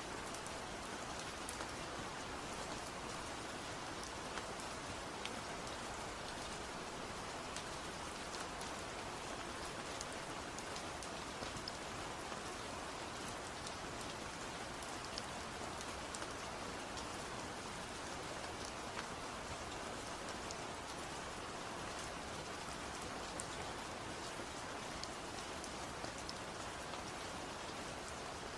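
Steady rain falling, an even hiss scattered with the light ticks of single drops.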